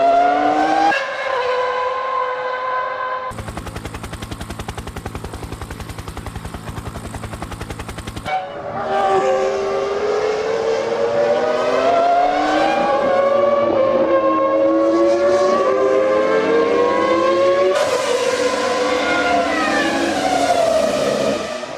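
Formula One cars' 3-litre V10 engines running at high revs, the pitch climbing through the gears and dropping at each shift and under braking. The sound changes abruptly several times, with a harsher, buzzing stretch of about five seconds in the middle.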